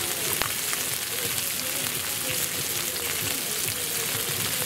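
Chicken sizzling on a hot flat-top griddle: a steady frying hiss with many small crackles.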